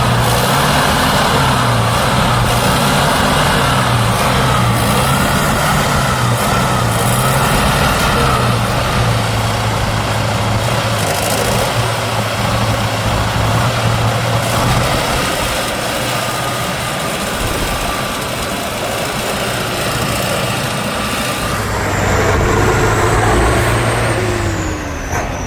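Heavy off-road trial truck's diesel engine working under load, its pitch swinging up and down about once a second for the first several seconds, then holding steady. Near the end it revs louder, followed by a falling whine.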